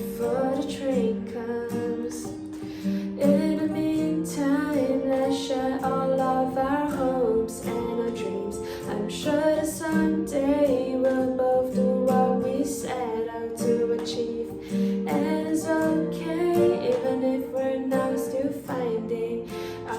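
Music: a woman singing over guitar accompaniment.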